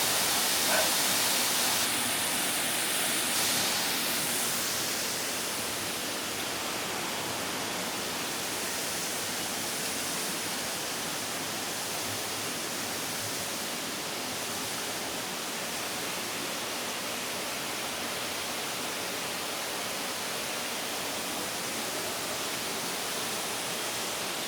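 Steady rushing of a waterfall, a little louder for the first few seconds and then even.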